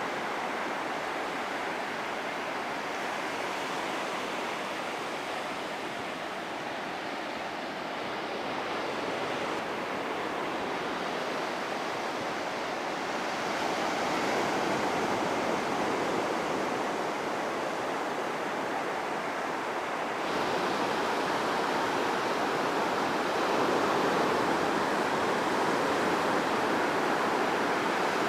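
Sea surf washing onto a beach, a steady rushing that swells and eases slowly and grows a little louder in the later part.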